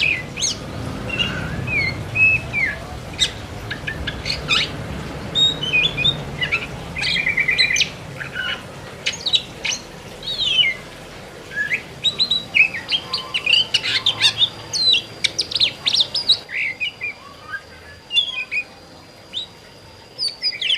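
Oriental magpie-robin (kacer) singing continuously: a long, varied song of clear whistles, slurred up-and-down notes and rapid trills strung together with only short gaps.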